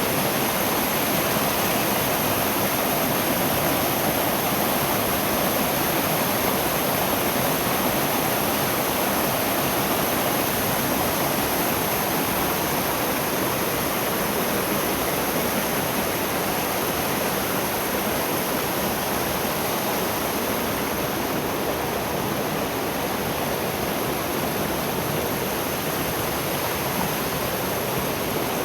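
Gorge stream water rushing, a steady, unbroken roar of flowing water.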